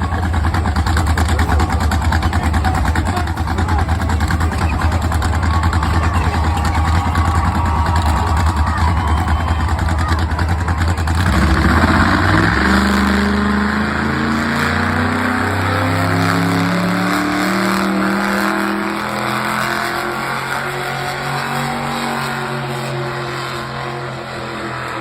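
Bigfoot monster truck's engine at full throttle dragging a pulling sled, a heavy deep drone. About halfway through the deep sound gives way to an engine note stepping up and down in pitch, which fades toward the end.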